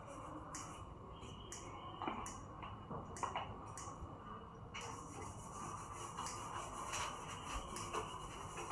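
Scattered light clicks and short scraping sounds from small hand work, over a faint steady hum.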